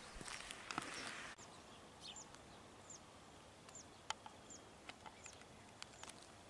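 Faint outdoor ambience: a small bird repeating short, high chirps that fall in pitch, every half second to a second, with a few isolated clicks. In the first second or so a louder hiss with sharp taps cuts off suddenly.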